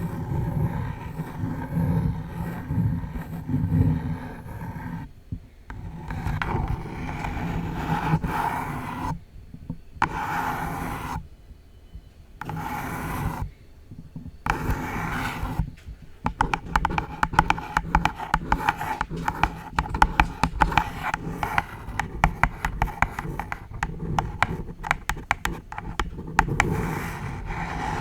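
Long false nails scratching a pink box close up on the microphone, in short strokes with brief pauses, then tapping on it in fast runs of sharp clicks from about halfway through.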